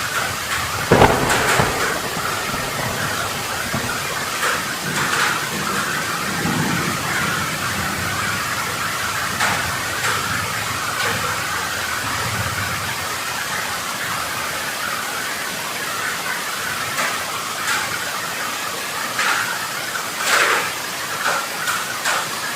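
Heavy rain pouring down steadily as a dense hiss, with a few sharp taps or splashes scattered through it, the loudest about a second in, and some low rumbling in the first seconds.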